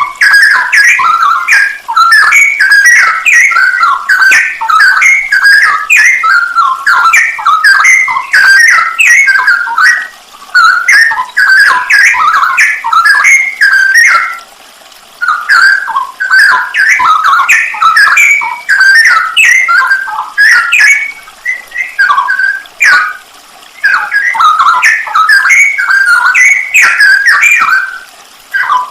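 Straw-headed bulbul (cucak rowo) singing a loud, fast run of whistled notes, breaking off briefly twice.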